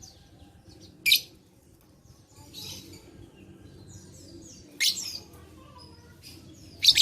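Lovebird calling: three loud, shrill, very short calls, about a second in, near five seconds and at the end, with fainter chirps between.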